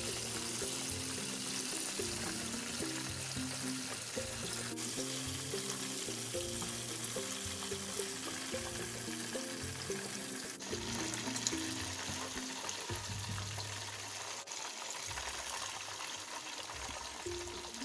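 Chicken wings deep-frying in hot oil: a steady, bubbling sizzle. Background music plays over it, its low melody dropping away about two-thirds of the way through.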